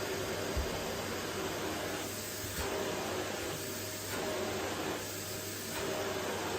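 Vacuum cleaner running steadily on a wooden floor, its tone shifting about every second and a half.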